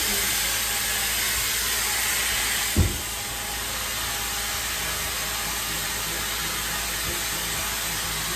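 Steady hiss of a hot-water extraction cleaner's vacuum and spray working upholstery. One short thump comes about three seconds in, and the hiss drops slightly after it.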